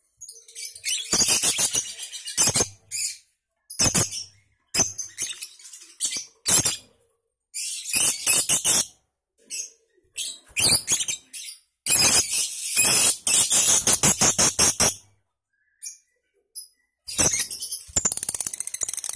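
Lovebird chattering in its long 'ngekek' call: high-pitched runs of very rapid rattling notes. The runs come in bursts of about a second, with brief pauses between them. There is a longer run about two-thirds of the way in, and a continuous run starts near the end.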